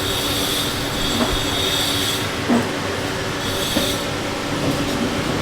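Steady mechanical hum and hiss with a high whine that fades out and comes back, and a few light clicks.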